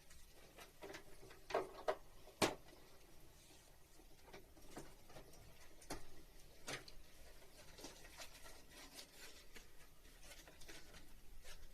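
Hands handling air-conditioner piping and its fastening bands: scattered light clicks, taps and rustling, with a sharper knock about two and a half seconds in.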